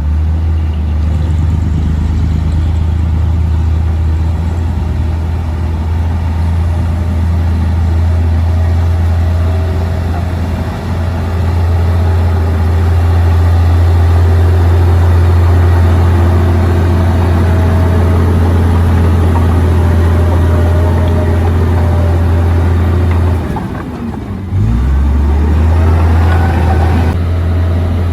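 Komatsu D58P bulldozer's diesel engine running steadily and loud with a deep, low drone; about three-quarters of the way through the engine sound drops away for about a second, then comes back up.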